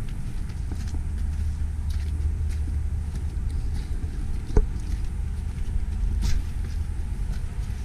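Outdoor city ambience: a steady low rumble, with faint scattered ticks and a single sharp click a little past halfway.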